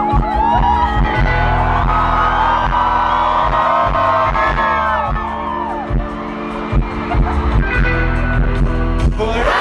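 Live rock band playing through a concert PA: a sustained keyboard chord with drum hits and wavering voices over it. About nine seconds in the music breaks off and crowd cheering takes over.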